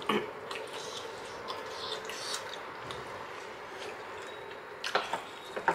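Close-miked eating sounds: soft chewing with a few light clicks and taps of a spoon and chopsticks, over a steady low hiss.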